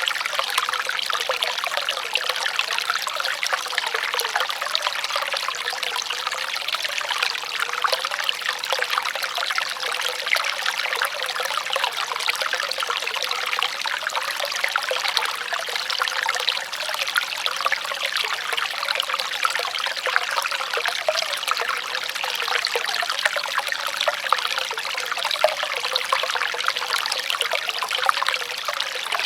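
Shallow running water trickling and splashing steadily, like a small stream or water channel.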